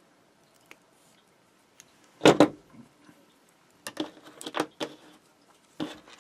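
Clicks and knocks of small hard objects being handled and set down at a workbench: a loud double knock about two seconds in, a quick run of clicks around the fourth and fifth seconds, and one more knock near the end.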